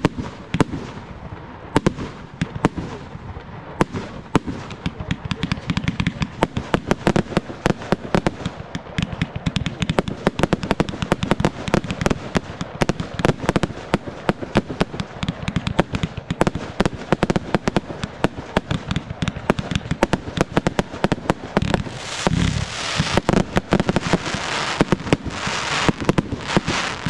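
Fireworks display: a rapid, continuous run of launches and shell bursts, several sharp bangs a second, with dense crackling building near the end.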